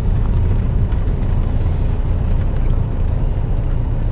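Steady low rumble of idling car engines.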